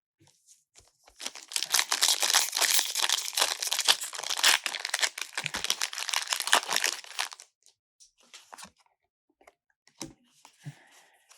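Foil wrapper of a Pokémon booster pack being torn open and crinkled for about six seconds, then a few faint taps and rustles.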